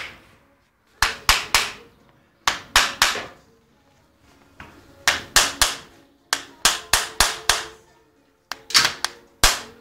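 Farrier's hammer striking horseshoe nails on a horse's hoof, in short runs of three to five sharp blows with brief pauses between, and a faint metallic ring after the strikes.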